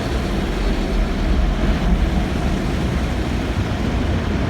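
Automatic tunnel car wash heard from inside the car: rain-repellent spray hissing steadily over the body over a low, even rumble.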